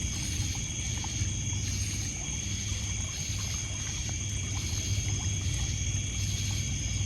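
Night ambience of crickets and other insects chirring in steady high tones, with a pulsed insect call repeating a little more than once a second. Faint scattered crackles of a wood campfire and water trickling against a pebble shore sit underneath.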